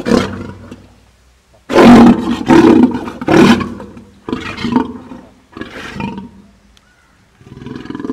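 Male lion roaring: three loud roars about two to three and a half seconds in, followed by a string of shorter, weaker grunting calls.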